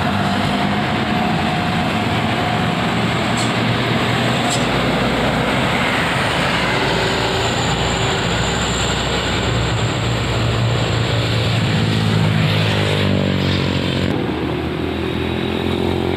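Heavy truck engine running steadily, mixed with road traffic and tyre noise; the sound changes near the end.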